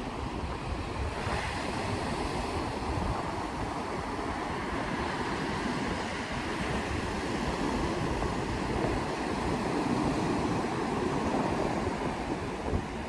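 Heavy surf washing in steadily, with wind rumbling on the microphone.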